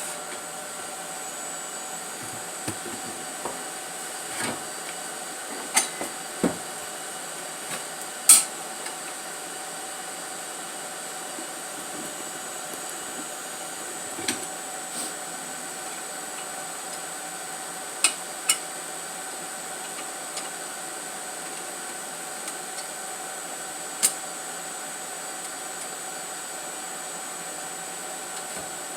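Scattered sharp clinks and knocks of metal exhaust pipe pieces and hand tools being handled, about a dozen over the stretch, over a steady faint hum.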